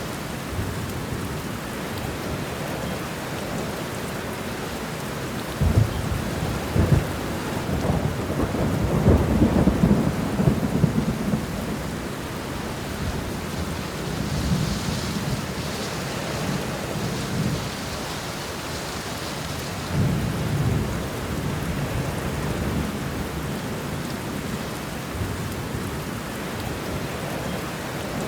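Steady heavy rain with rolling thunder: a sharp crack about six seconds in, then long low rumbles that swell and fade, again near the middle and about two-thirds of the way through.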